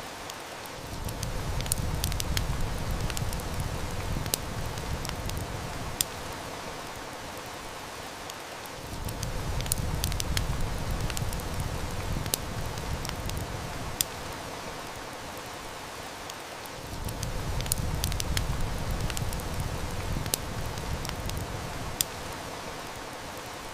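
Steady rain hiss mixed with a crackling wood fire, with scattered sharp snaps. A low rumble swells in and fades out three times, about every eight seconds.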